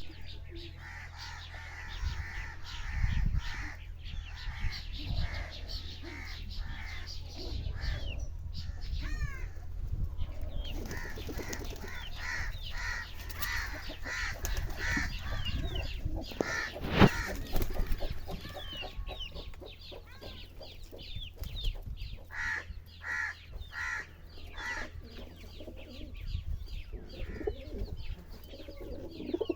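Pigeons calling, many birds at once, with repeated cooing and chirps over a steady low hum.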